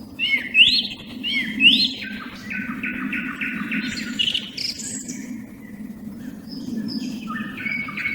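Song thrush and nightingale singing against each other: loud rising whistled notes repeated in pairs, then a fast run of repeated notes and further varied phrases, over a steady low hum.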